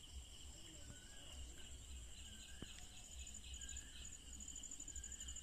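Faint chorus of frogs and insects: a steady, high-pitched pulsing trill with short frog calls repeating about once a second.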